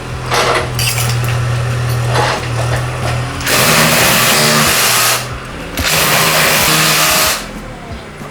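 Small engine-driven machine running with a steady hum, with two loud rushing spells of over a second each in the second half.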